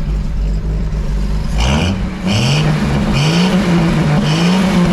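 Motor vehicle engine revving: after a low rumble, its pitch climbs four times in a row, a little under a second apart.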